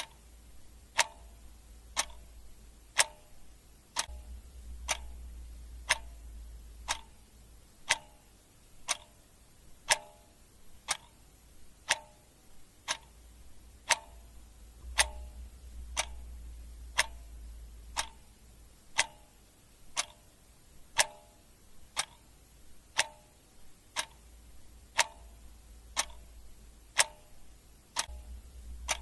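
Clock ticking steadily once a second, the strokes alternating between a plain tick and a slightly ringing tock, over a faint low rumble that swells and fades.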